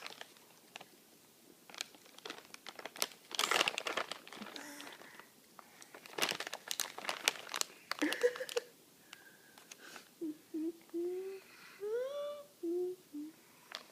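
Crinkling, crackling noises for several seconds, then a young child's babbling with short hums and rising pitched sounds near the end.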